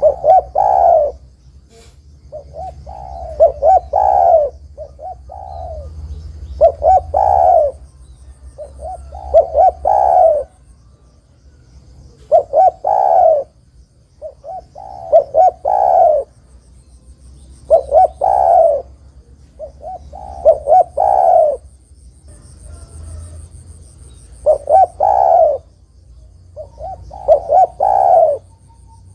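Spotted dove cooing its song over and over, about ten phrases, one every two to three seconds. Each phrase is a few short coos running into a longer, drawn-out final coo.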